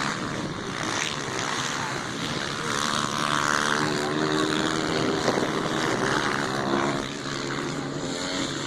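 Motocross motorcycle engines running, a droning engine note that holds a steady pitch and shifts slightly, strongest from about three to seven seconds in.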